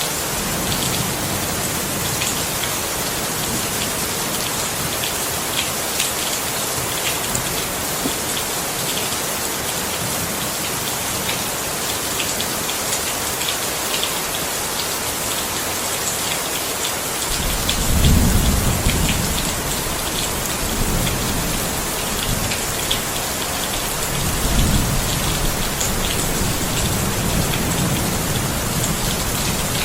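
Steady rain, with scattered drops ticking. A little over halfway through, low rolls of thunder begin, swelling twice.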